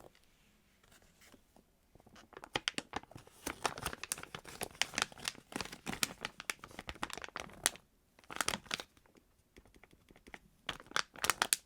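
Close-miked crinkling and crackling handling noise in several bursts, with a long stretch in the middle and two shorter bursts near the end.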